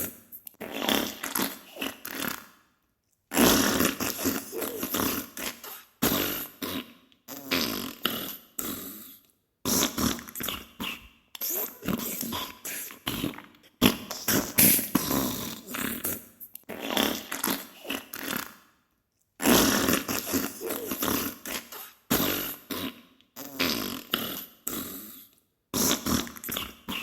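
Diarrhea sound effect: wet-sounding farts in bursts of rapid sputters, each one to three seconds long, with short silent breaks every few seconds.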